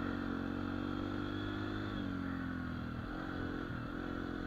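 Dirt bike engine running at low, fairly steady revs, easing off slightly about two seconds in and dipping briefly a second later.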